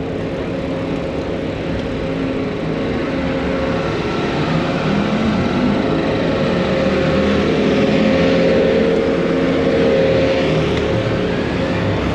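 City street traffic: motor vehicle engines running close by, one rising in pitch as it accelerates about halfway through, the noise growing louder toward the end.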